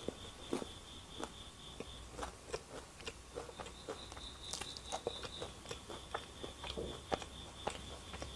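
Chewing a crumb-coated cheese corn dog: soft crunches and wet mouth clicks at about two or three a second.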